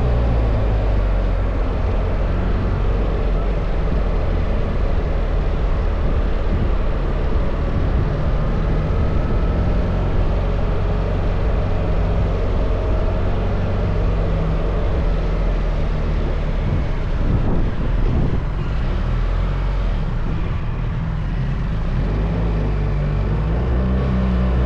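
BMW R1300 GS boxer-twin engine running while the motorcycle is ridden, over a steady rush of wind noise; the engine note changes pitch several times as the revs rise and fall.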